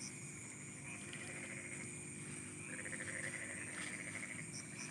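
Night chorus of frogs and insects: steady high-pitched insect trilling, with a rapid pulsed trill joining a little past halfway and stopping about a second later.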